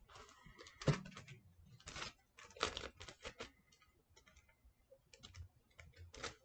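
Paper and sticky tape being handled: irregular crackling and rustling, with the loudest bursts about a second in and near three seconds in.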